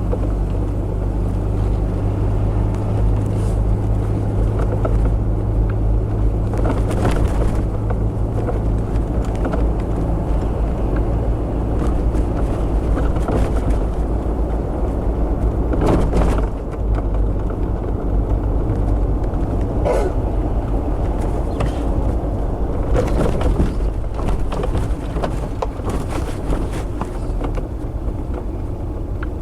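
Car engine and road noise heard from inside the cabin while driving, a steady low hum whose note changes about ten seconds in, with a few short knocks from the road.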